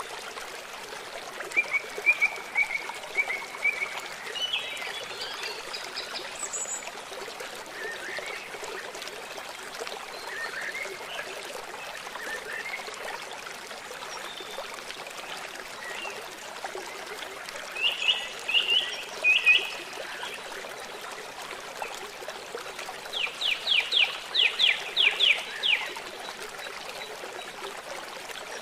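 Steady rush of a river or stream, with songbirds calling over it: short chirps in the first few seconds, a few more past the middle, and a fast trill of about a dozen notes near the end.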